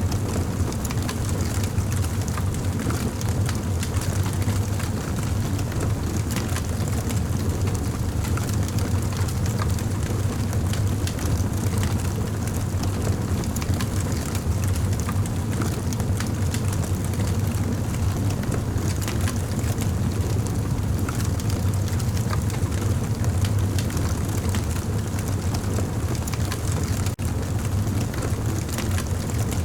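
Campfire burning: a steady low rumble of the flames with many small crackles and pops throughout.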